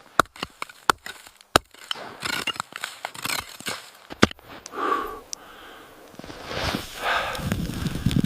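A series of sharp knocks and scrapes from work on wooden shelter poles, then several heavy, noisy breaths in the second half.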